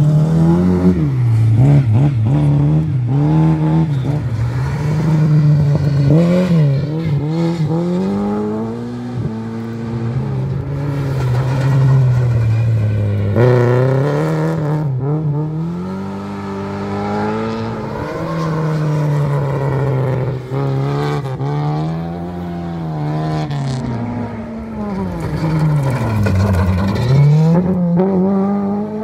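Lada rally car engines revved hard, the pitch climbing and dropping again and again as the cars are driven sideways on loose gravel and dirt.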